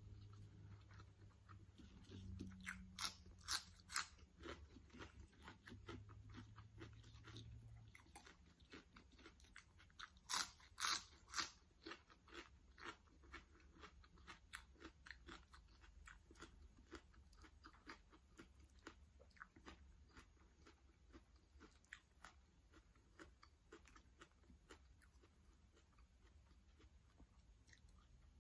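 A person biting crisp raw vegetables and chewing: three sharp, loud crunches a few seconds in and three more about ten seconds in, then a long run of softer rhythmic chewing crunches that grow fainter.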